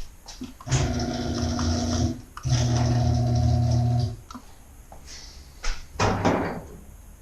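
Garage door opener motor running with a steady hum in two spells of about a second and a half each, a short break between them, followed by a few knocks.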